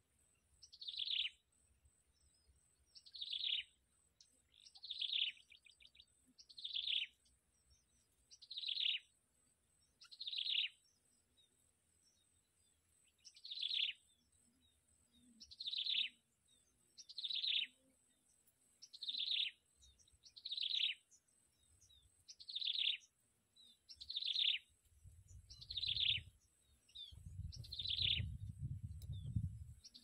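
A bird calling over and over: a short, high, falling note repeated about every two seconds.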